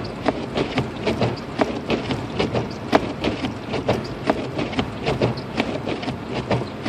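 Road rumble inside a car cabin while driving through a snowstorm, with dense, irregular ticking and tapping, several a second.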